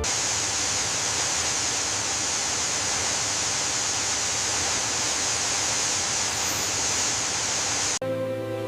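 Steady, even rushing hiss, brightest in the high end, like rushing water; it starts suddenly and cuts off abruptly about eight seconds in.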